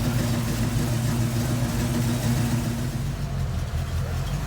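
A car engine running at a steady idle, growing a little quieter about three seconds in.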